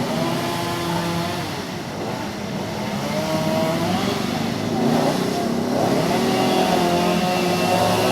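Road traffic: several motorbike and car engines running and passing at once, their pitches slowly rising and falling.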